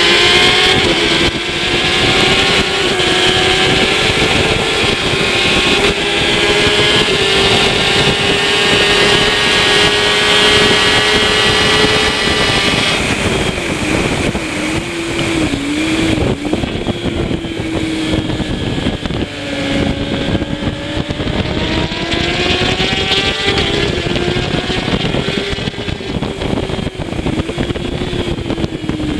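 Kawasaki ZX-10R superbike's inline-four engine running at high revs at racing speed. The pitch climbs slowly, wavers and drops for a couple of seconds around the middle, then climbs again, over a steady rush of wind noise.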